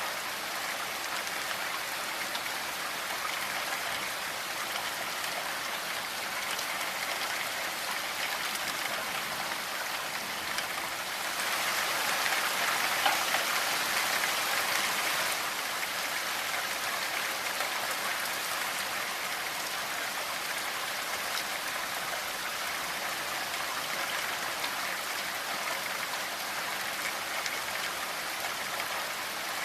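Steady rainfall, an even hiss of many drops, swelling louder for a few seconds near the middle.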